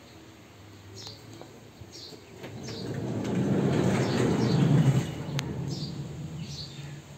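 A small bird chirping over and over, short falling chirps a little under a second apart. A broad rushing noise swells up midway and fades again.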